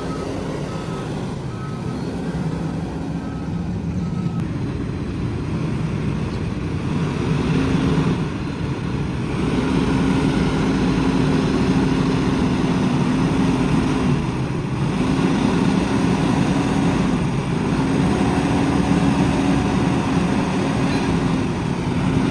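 Heavy diesel engine of earthmoving machinery running under load, its pitch rising and easing in stretches of a few seconds. A reversing alarm beeps in the first few seconds.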